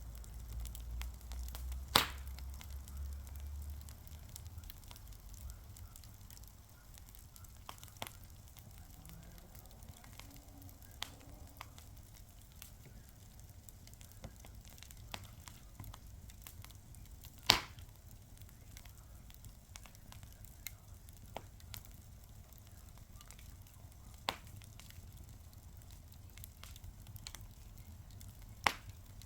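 Fire crackling: scattered sharp pops and snaps over a soft low rumble. The two loudest pops come about two seconds in and a little past the middle.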